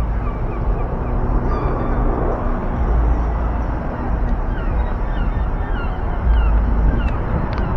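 Wind rumbling on the microphone while riding, over a steady low hum, with a run of short high falling chirps that come thickest in the second half.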